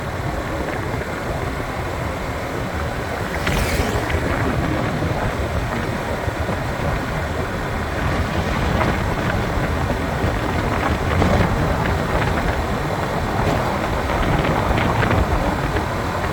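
Wind rumbling on the microphone of a moving motorbike, with the bike's running mixed in as a steady noise. It gets a little louder about three and a half seconds in, with one brief sharp rustle at that point.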